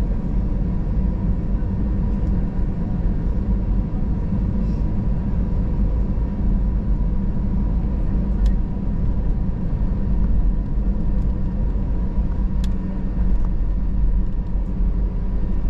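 Steady low rumble inside an Airbus A320's cabin as it taxis out before takeoff, with a faint steady whine and a couple of light clicks.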